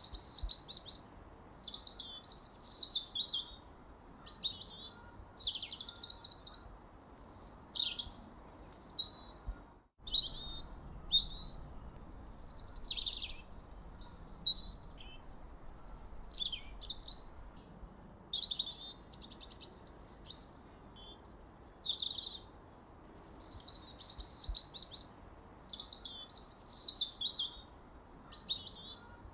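Songbirds singing: a steady run of quick, varied chirps and whistled phrases, with a momentary break in the sound about ten seconds in.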